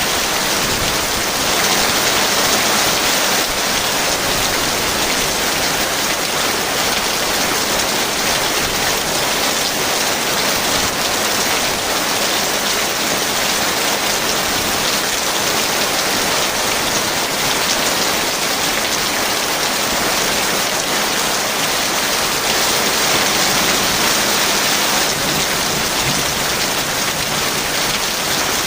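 Heavy rain falling steadily, a dense even hiss of countless drops with no change in strength.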